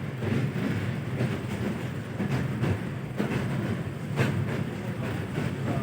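Train running along the rails: a steady low rumble with the wheels clacking over rail joints every so often.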